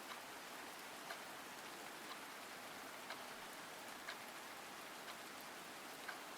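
Steady rain sound effect, a soft even hiss of rain falling, with a faint tick about once a second.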